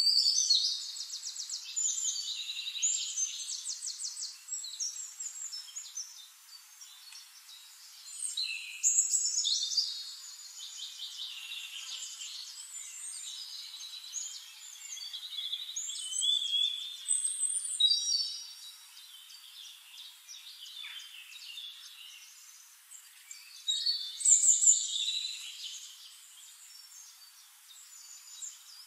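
Songbird song: bouts of rapid high trills and chirps, loudest at the start and again about 24 seconds in, with quieter spells in between.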